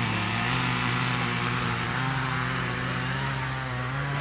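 An engine running steadily at an even pitch that drifts slightly, with a constant rush of noise over it.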